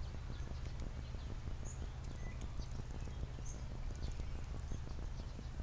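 Small backyard birds giving short, high chirps a few times, over a steady low rumble and a dense run of soft irregular clicks.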